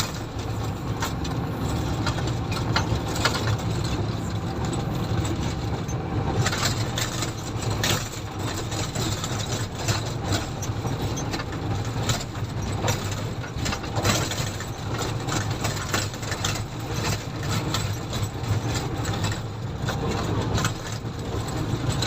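Komatsu motor grader's diesel engine running steadily, with frequent rattles and knocks from the machine as it works.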